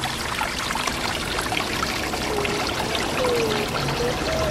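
Running noise of a train heard from on board: a steady, even rush with many small clicks and rattles throughout.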